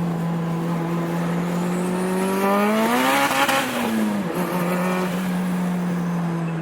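Car engines running: a steady engine drone, with another engine rising in pitch to a loud peak about three seconds in and then falling away, like a car revving hard and going by.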